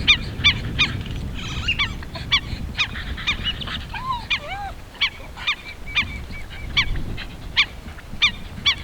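American avocets calling over and over, short sharp piping notes about two to three a second, several birds overlapping.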